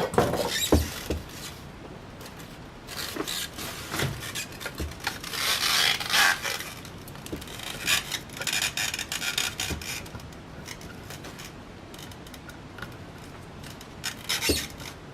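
Hands working on ceiling fan parts: rubbing and scraping with scattered small clicks and knocks. The busiest rasping runs from about five to ten seconds in, and it is quieter after that, with a few clicks near the end.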